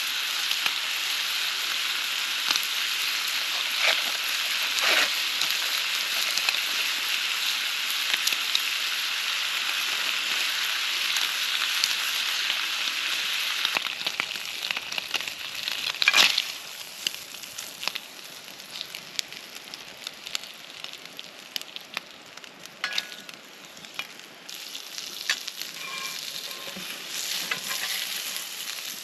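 Food sizzling in a pan over a campfire, a steady hiss with small pops. About halfway through the sizzle eases off, leaving scattered crackles and one sharp crack.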